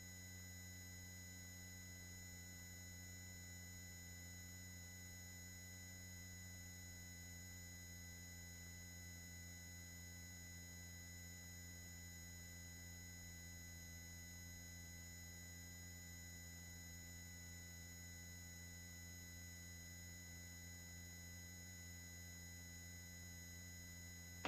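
Faint, steady electrical hum and thin high whine on the helicopter's intercom line: several fixed tones that never change, with no voices on the channel.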